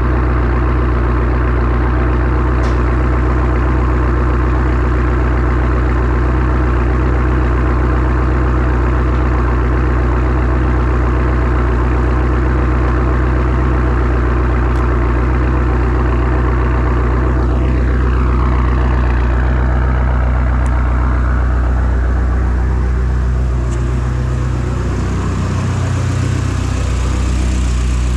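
BMW F10 M5's 4.4-litre twin-turbo V8, fitted with an Eisenmann race exhaust, idling steadily after a cold start. Its low exhaust note shifts briefly near the end.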